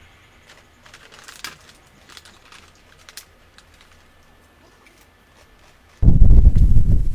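Faint scattered ticks and clicks over a quiet background, then, about six seconds in, a sudden loud, low rumble of wind buffeting the microphone.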